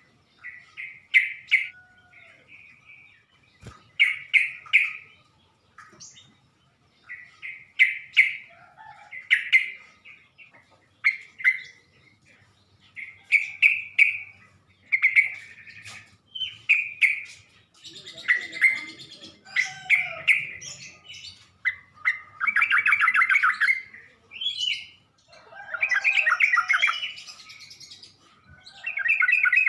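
Yellow-vented bulbul (trucukan) calling: short bubbly chirping phrases repeated every second or two, turning into longer chattering runs in the second half.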